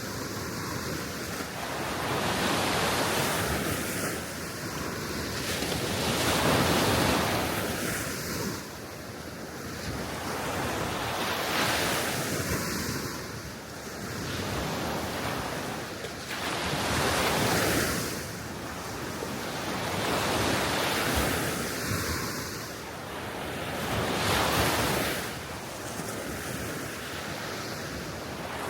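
Small sea waves washing onto the shore, swelling and falling every few seconds, with wind blowing over the microphone.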